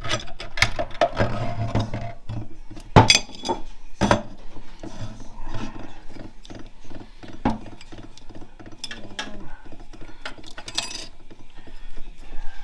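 Metal 4L65E automatic-transmission parts clinking and knocking as they are handled and pulled apart during teardown: a string of irregular sharp clicks, with louder knocks about three and four seconds in.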